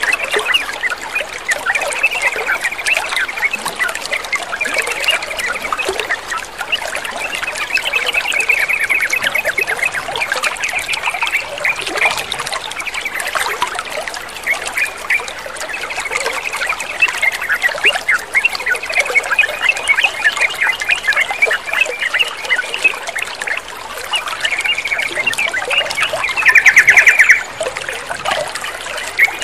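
Yellow-vented bulbuls (trucukan) chattering and singing over steadily trickling water, with a loud rapid trill near the end.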